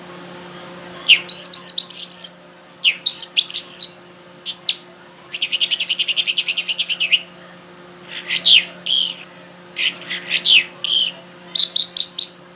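A songbird singing in short, varied phrases of high chirps and whistled sweeps, with a fast, even trill lasting about two seconds near the middle.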